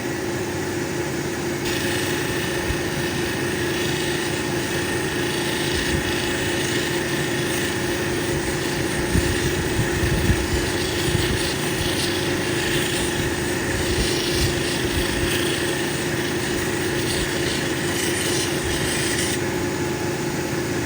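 Cabbing machine motor running with a steady hum while an opal cabochon is held against its 3000 diamond polishing wheel, giving a hissy rubbing sound from about two seconds in until near the end.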